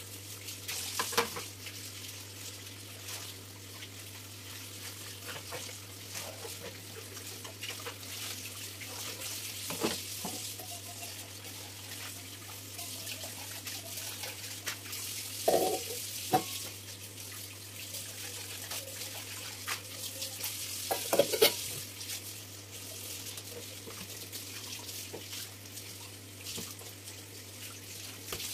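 Kitchen tap running steadily into a sink, with a few sharp knocks and clinks of things being handled about a second in, near the middle and about three-quarters of the way through.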